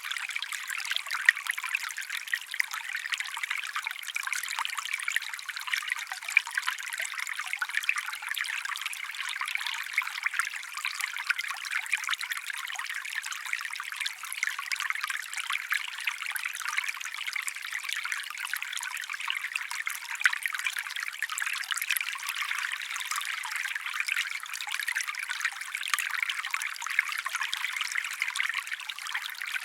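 Water trickling, a steady thin babble with many small splashes and no low rumble.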